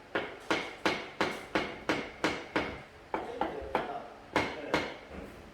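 A hammer striking again and again at about three blows a second, each blow sharp with a short ring, with a brief pause before the last two.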